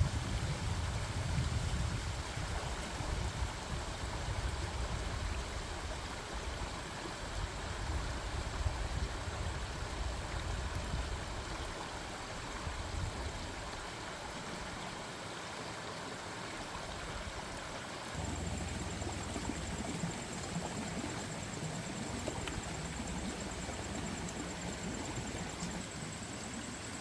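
Steady rushing noise like running water, with an uneven low rumble that changes about two-thirds of the way through.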